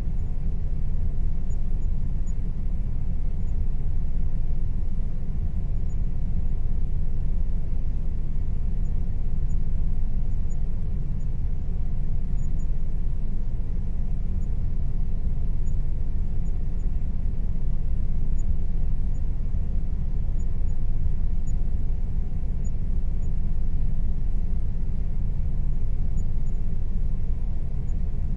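Air conditioner running steadily: a constant low rumble with a faint steady tone above it.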